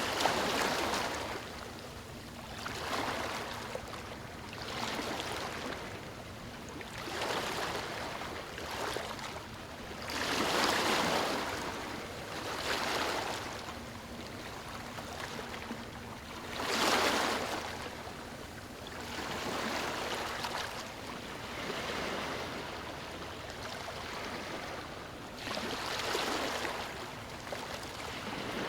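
Water washing and splashing in repeated surges that swell and fade every two to four seconds, the strongest around ten and seventeen seconds in.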